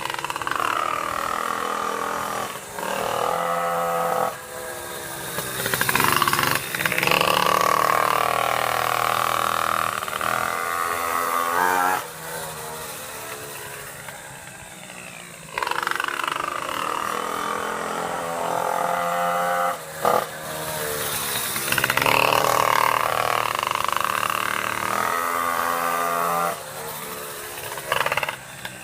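Small two-stroke pocket bike engine, still being run in, revving up and easing off through the corners as the bike laps the circuit. It comes close twice, with quieter stretches as it moves to the far side of the track.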